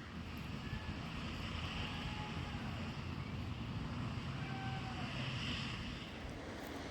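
Wind rumbling steadily on the microphone, with a faint airy hiss over it.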